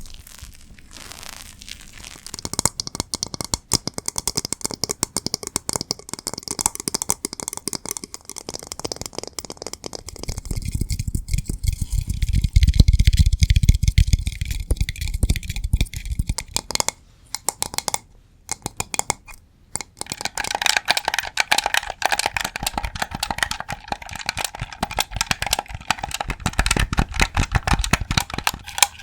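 Close-miked ASMR tapping and scratching on objects: a stream of fast clicks and crackles, heavier and lower for several seconds midway, then bright rapid tapping after a couple of short pauses.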